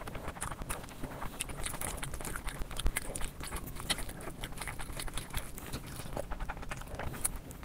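Close-miked wet chewing and lip-smacking of a mouthful of spicy fried rice and curry eaten by hand, a dense, uneven run of small clicks and squelches.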